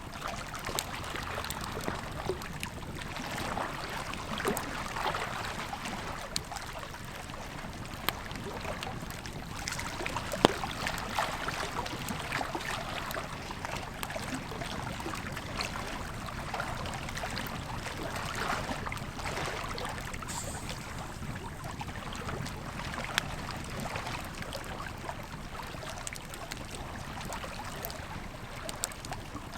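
A river flowing steadily with a wood campfire crackling over it: scattered sharp pops and snaps, the loudest about ten seconds in.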